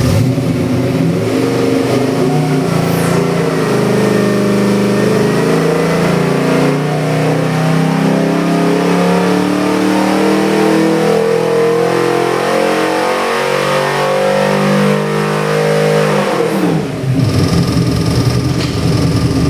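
Ford 408 Windsor stroker V8 with a Dart block, AFR heads and Holley EFI, pulling under load on an engine dyno. Its pitch climbs steadily for about fifteen seconds, then drops sharply as the throttle closes and it falls back to a lower steady speed.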